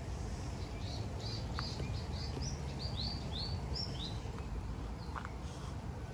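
A bird singing a quick run of about a dozen short, high notes lasting about three seconds, over a steady low outdoor background rumble.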